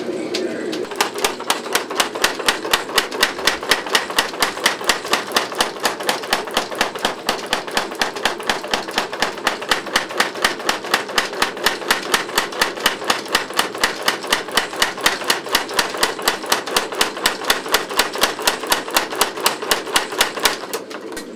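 25 lb Little Giant power trip hammer pounding a bar of hot 5160 spring steel in a fast, even rhythm of about five blows a second. The blows start about a second in and stop shortly before the end.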